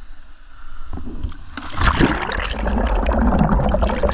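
River water splashing and rushing close around a kayak. It builds about a second in and is loud from about a second and a half on, with a heavy low rumble.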